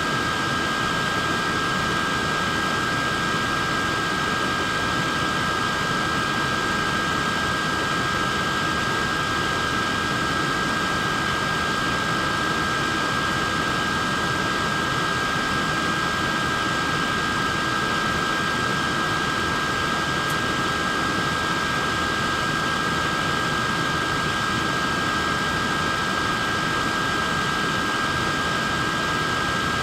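Neck fan running steadily: an even airy whoosh with a constant high-pitched motor whine.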